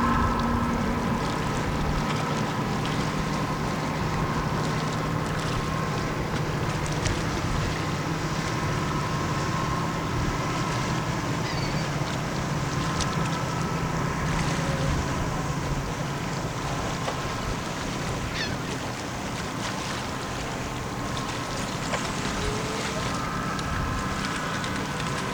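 Tugboat's diesel engine running steadily as the tug pushes its barge upriver, a steady hum with a low tone that fades out about two-thirds through, over wind rumbling on the microphone.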